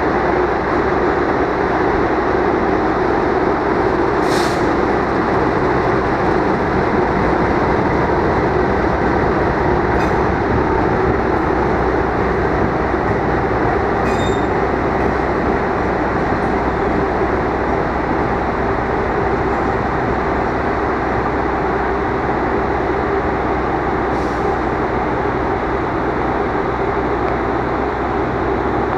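Diesel locomotive running as it hauls a rake of stainless-steel passenger coaches slowly along a station track during shunting: a steady train noise with a few short sharp clicks from the wheels and rails.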